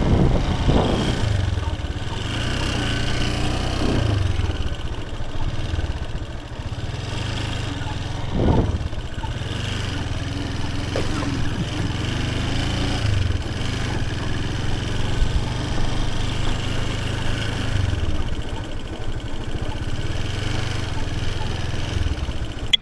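Motorcycle engine running steadily while riding at low speed, its note shifting briefly a few times, with wind noise over it.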